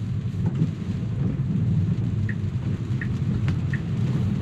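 Steady low rumble of road and rain noise inside a Tesla's cabin, with the turn signal ticking about once every three quarters of a second in the second half.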